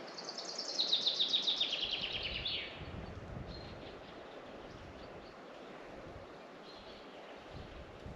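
A songbird singing a fast trill of rapidly repeated notes that falls in pitch, lasting about two and a half seconds, followed by a few fainter chirps.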